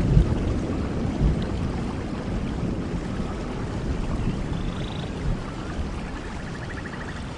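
Steady rain with a low thunder rumble that slowly dies away.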